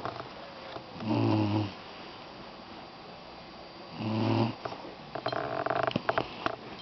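Doberman puppy snoring in its sleep: two low snores about three seconds apart, then a higher, crackly breath near the end.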